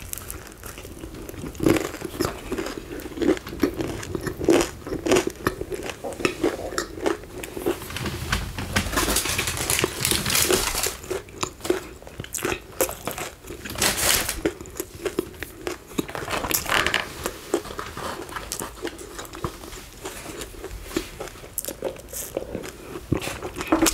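Close-miked eating: biting and chewing a KFC chicken wrap, with many short crunches and wet mouth sounds. A longer stretch of rustling comes about a third of the way in.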